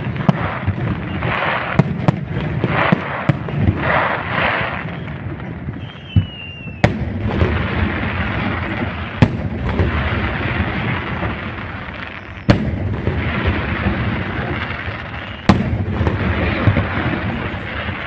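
Aerial fireworks display: shells bursting with sharp bangs over a continuous hiss and crackle. A short falling whistle comes about six seconds in, followed by a series of loud bangs roughly three seconds apart.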